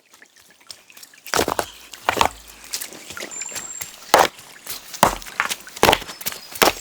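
A series of sharp knocks or impacts, about six at uneven spacing of roughly one a second starting just over a second in, over a faint noisy background; a brief high whistle sounds between them about three seconds in.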